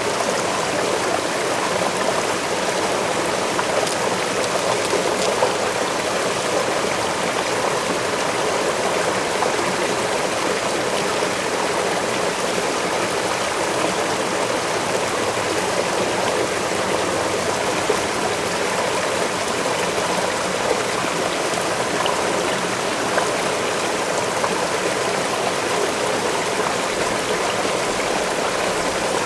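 Waterfall water rushing and splashing in a steady, unbroken rush, with a few faint drip-like ticks.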